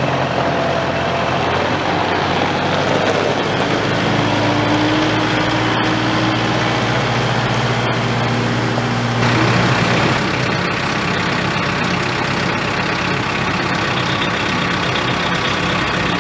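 Kubota M7060 tractor's four-cylinder turbo diesel engine running steadily. Its note steps up a few seconds in and drops back down a little after nine seconds.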